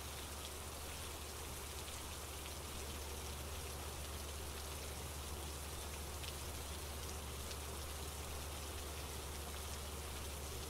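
Steady rain falling, with a few separate drop ticks standing out over a low, even rumble.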